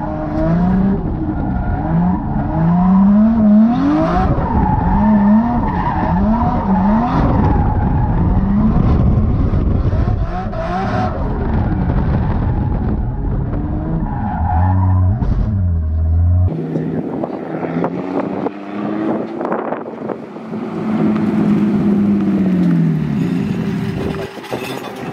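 Toyota Chaser JZX90's turbocharged straight-six revving up and down again and again as the car is drifted, heard from inside the cabin. About two-thirds of the way through, the sound cuts to the car heard from outside, with one slower rev that rises and falls.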